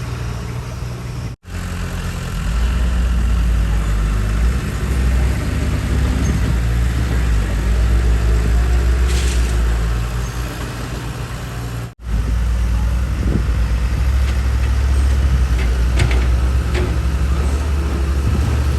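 Heavy diesel engine of earthmoving equipment running steadily with a deep, low drone. It gets somewhat louder a couple of seconds in. The sound cuts out abruptly twice, for an instant each time.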